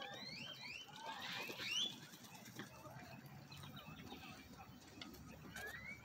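Birds calling in short upward-sliding whistles, several overlapping in the first two seconds, then fewer and fainter, with one more rising whistle near the end.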